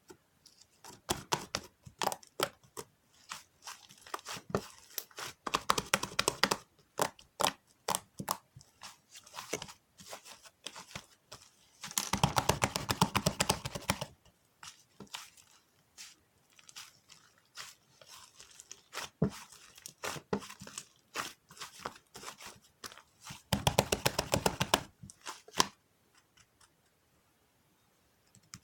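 Paper and sticky tape being handled close to the microphone: crinkling, scattered crackles and taps, with three stretches of a few seconds of dense rapid crackling like tape being peeled or torn.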